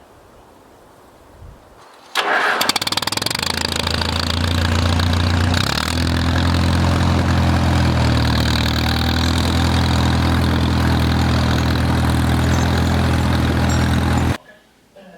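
Farmall M tractor's four-cylinder engine cranking and catching about two seconds in, then running steadily, with a small rise in speed a few seconds later. It cuts off suddenly near the end.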